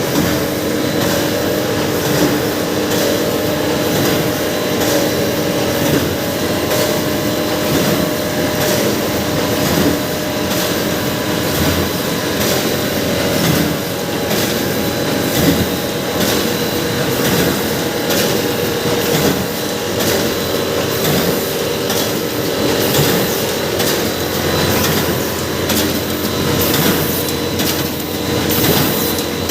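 A machine running steadily: a continuous mechanical hum with a level tone and a repeating clatter.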